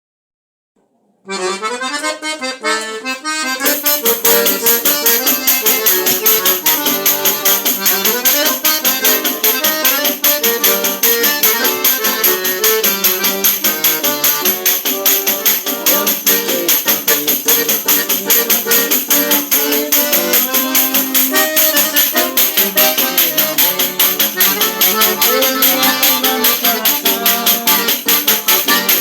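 Button accordion and pandeiro playing a lively traditional tune. The accordion starts alone about a second in, and the pandeiro's jingles join a couple of seconds later with a fast, steady beat.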